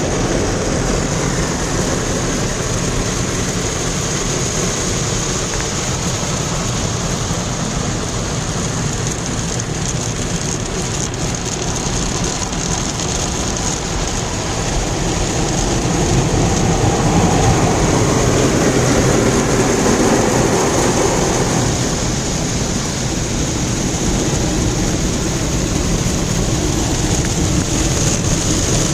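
Automatic car wash: water spray and washing equipment rushing and beating steadily on the car, swelling for a few seconds midway.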